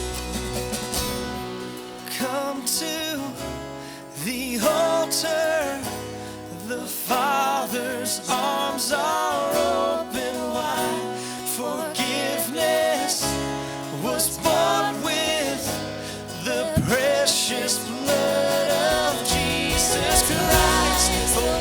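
A worship band playing a contemporary Christian song, with sustained chords, guitar and a wavering lead melody line carried over them.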